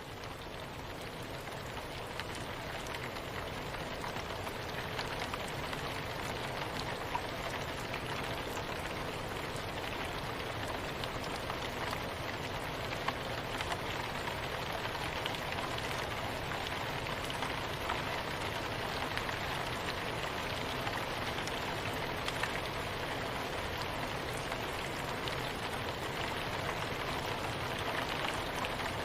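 Steady rain falling on a surface, an even hiss with scattered drop ticks, fading in over the first few seconds and then holding steady.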